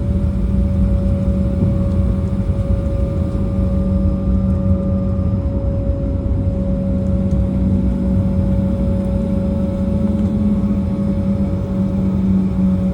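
Cabin noise inside an Embraer E190 airliner taxiing after landing: a steady low rumble with a constant hum from its turbofan engines.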